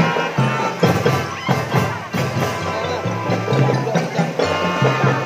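Drum band playing: struck percussion in a steady rhythm over a stepping low bass line, with melody lines above.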